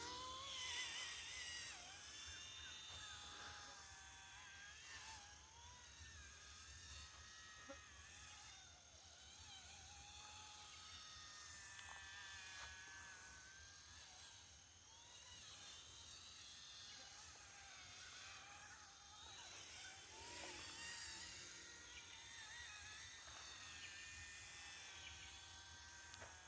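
Small electric RC helicopter (Era RC C186 Pro) flying, its motor and rotor making a faint high whine that slowly rises and falls in pitch.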